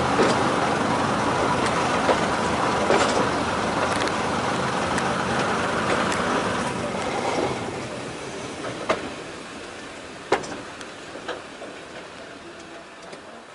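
Heritage diesel multiple unit heard from on board as it slows into a station: a steady running rumble that fades away over the second half, with a few sharp clicks and knocks from the running gear as it comes down to walking pace.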